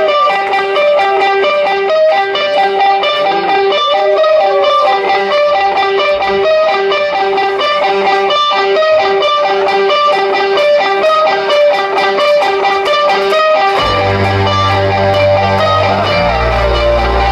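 Live rock band opening a song: a lone electric guitar plays a repeating riff with string bends, then bass and the rest of the band come in with a heavy low end about fourteen seconds in.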